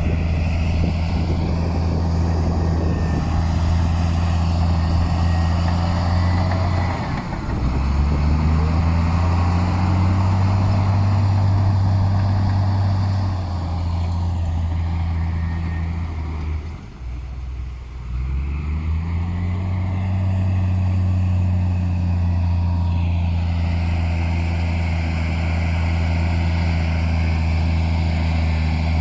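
Heavy diesel engine of an earthmoving machine running loudly, its revs rising and falling as it works. About two-thirds of the way through it briefly drops in pitch and loudness, then picks back up to a steady run.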